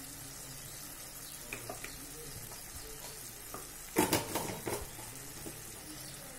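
Chicken pieces frying gently in oil in a pressure cooker, a steady soft sizzle. About four seconds in, a short clatter of a metal spoon against the pot.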